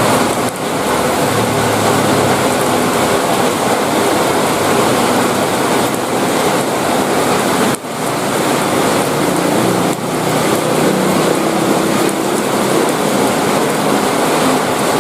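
Heavy rain pouring down, a dense, steady hiss, dipping for an instant about eight seconds in.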